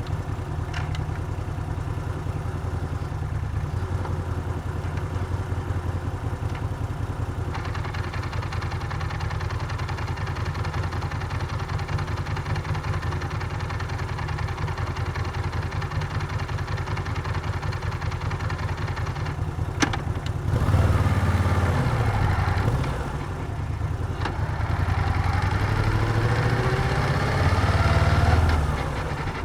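Moto Guzzi V7's air-cooled transverse V-twin running at a steady idle for about twenty seconds. A sharp click follows, then the engine pulls away, rising in pitch under acceleration with a brief dip partway through, and rising again before the throttle comes off near the end.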